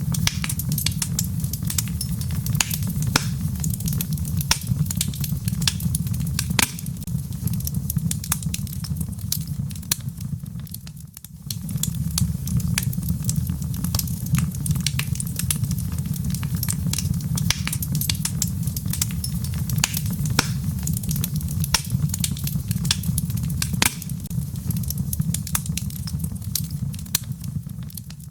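Wood fire crackling in a fireplace, with frequent sharp pops and snaps over a steady low rumble. The sound dips briefly about ten seconds in, then comes back.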